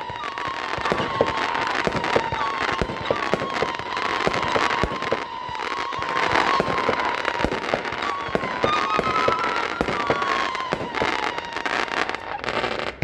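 A 36-shot consumer firework cake firing: a quick, continuous run of launch thumps and bursting pops, with a wavering high tone running underneath.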